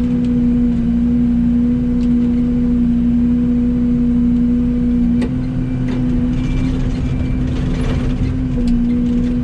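Yanmar excavator's diesel engine running steadily with a strong hum, while it handles pipe for the dump truck; a few sharp metallic knocks of the pipes being moved come through about 2, 5, 6 and 9 seconds in.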